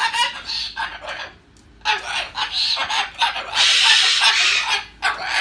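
Moluccan cockatoo grumbling: a run of short, choppy, clucking mutters. After a brief pause it gives a louder, harsh call lasting about a second, midway through. It is an agitated, scolding rant.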